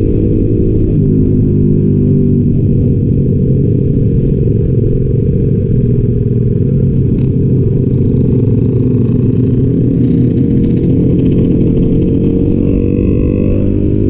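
Honda Sonic single-cylinder engine, bored up to 175 cc with a 62 mm piston, running at a fairly steady cruising speed while being ridden, heard close from on board.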